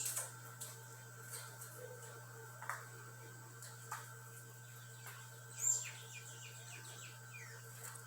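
Small birds chirping: scattered short, high chirps and quick falling notes, loudest right at the start and about five and a half seconds in, over a steady low hum.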